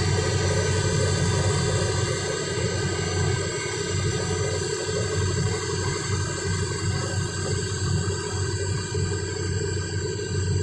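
Heavy diesel engine of an excavator running steadily with a low drone.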